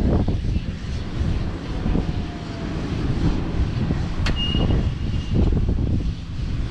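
JCB Fastrac 4220 tractor's 6.6-litre six-cylinder diesel engine running, its sound heavy in the low end. A sharp click comes about four seconds in, followed by a brief high steady tone.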